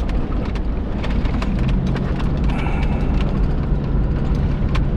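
A vehicle driving on a rough dirt road: a steady low rumble with scattered clicks and rattles, and an engine hum that settles to a steady pitch about a second and a half in.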